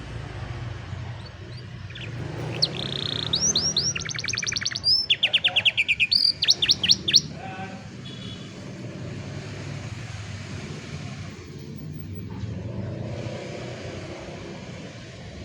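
Canary singing one song phrase of about five seconds, fast runs of repeated chirping notes and trills, over a steady low background hum.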